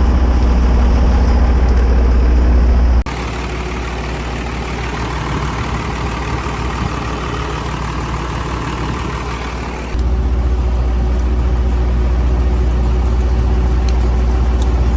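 Cummins diesel engine of an old dump truck idling steadily after a cold start. The sound drops sharply in level about three seconds in and jumps back up about ten seconds in, as at cuts between takes.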